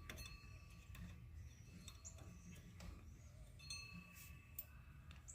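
Near silence with a few faint clicks and light metallic clinks of hand tools working on the clutch set screw.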